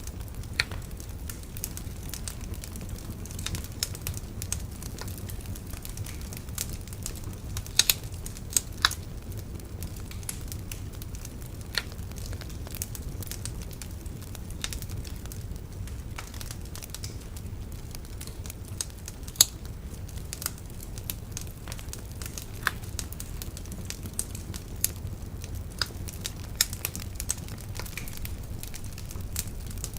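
Wood fire crackling and popping, with irregular sharp snaps over a steady low rumble of burning.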